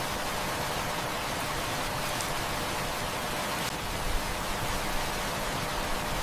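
Heavy rain falling steadily, an even hiss, with a few faint clicks here and there.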